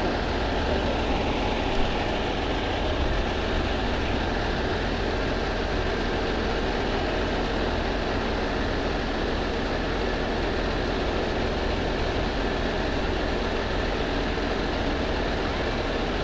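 Steady vehicle noise with a low rumble, unbroken throughout, and a brief knock about two seconds in.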